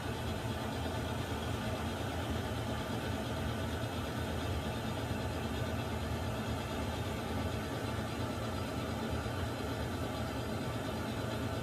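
Water heater running with a steady low rumble under an even hiss, unchanging throughout.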